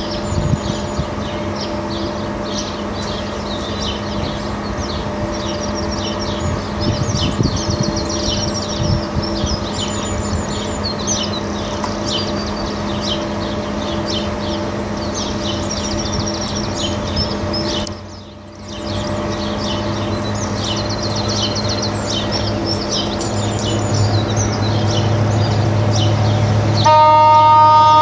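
Birds singing over a steady low hum. Over the last several seconds an approaching train rumbles in, growing louder, and near the end it sounds a loud horn.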